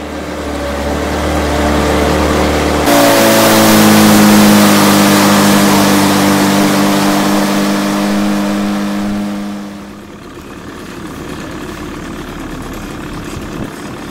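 Car engine running; about three seconds in it jumps to a loud, high rev whose pitch slowly falls, then it drops back to a lower, steady idle about ten seconds in.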